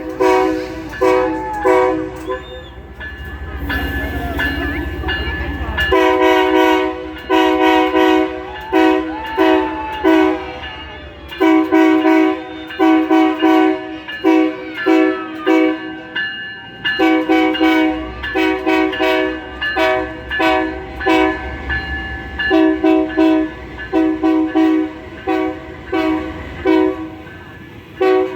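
Locomotive air horn sounding the same chord over and over in short rhythmic blasts, in groups with brief gaps, over the low rumble of the train.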